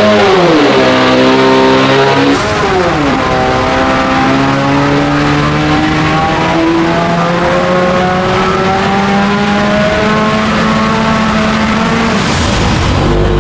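12-rotor rotary engine running loud on a dyno. Its pitch dips, rises briefly, then climbs steadily for about ten seconds through a full pull, and stops near the end. One side of the rotors is running really rich and misfiring.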